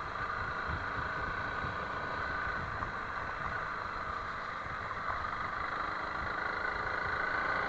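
Honda CRF300L Rally's single-cylinder engine running steadily, a little louder near the end.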